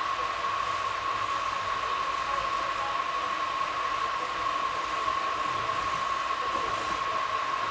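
Passenger train running steadily, heard from on board: an even rushing noise with a constant high-pitched whine.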